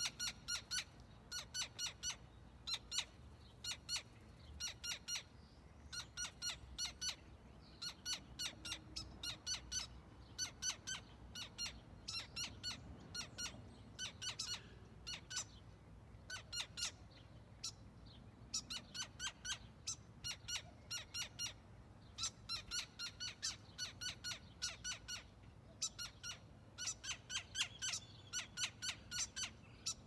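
A bird calling over and over in runs of short, sharp, high notes, about three or four a second, with brief pauses between runs. These are alarm calls, which the uploader takes as the bird warning others to defend its nest from a stranger.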